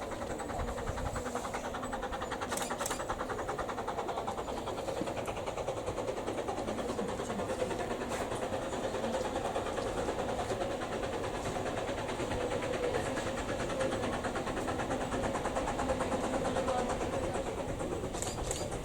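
Narrow-gauge train running along the track, a steady rumble with no marked change.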